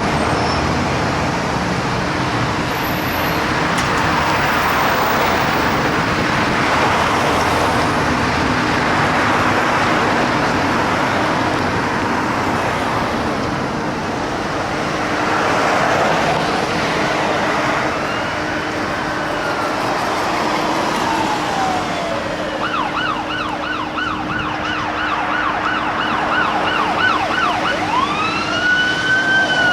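Emergency vehicle's electronic siren. Over a steady low hum and road noise, a slow rising-and-falling wail starts about 17 seconds in, switches to a fast yelp a few seconds later, then sweeps back up into a wail near the end.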